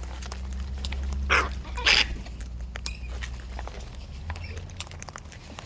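Wild parrot giving two short, harsh squawks about a second and a half and two seconds in, with light scattered clicks and a low rumble underneath.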